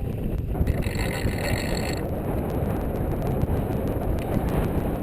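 Wind buffeting the microphone on a sailboat, a steady low rumble. About a second in, a brief higher hiss with faint steady tones joins it.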